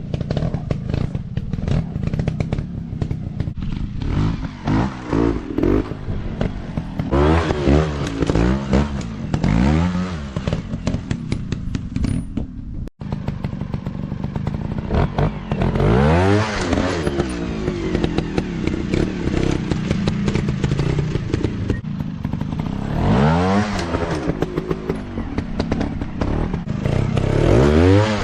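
Dirt bike engines running hard, with repeated throttle blips that sweep up and down in pitch over a steady clattering engine note. The sound drops out for an instant about halfway through.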